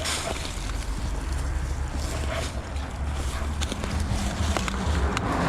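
Wind buffeting the microphone over steady road-traffic noise, with scattered short clicks and crackles through it.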